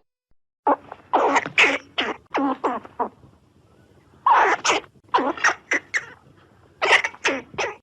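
An animal giving short, sharp calls in quick succession, in three rapid bouts of several calls each.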